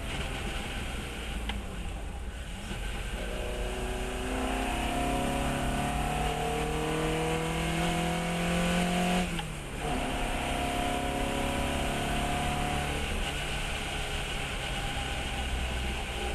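Fiat 132 race car's four-cylinder engine pulling hard on track, its revs climbing for several seconds, then dropping sharply at an upshift about halfway through before climbing again, over steady wind and road noise.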